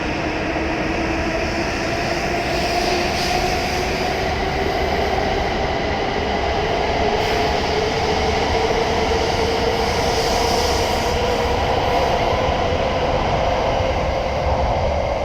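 E7 series Shinkansen pulling out and accelerating: the traction motors' whine rises steadily in pitch over the rumble of the train.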